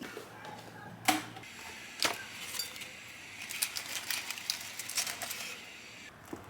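Two sharp clicks, then a run of small quick ticks and light clatter of small objects being handled, fading about six seconds in.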